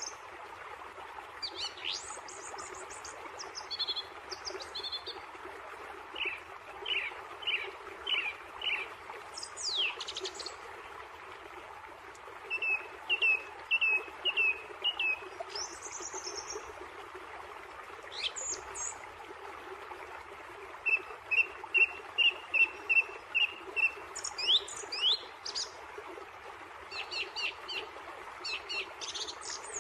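Several wild birds singing and calling over a steady background hiss. Their songs are runs of short repeated chirps and quick high downslurred whistles.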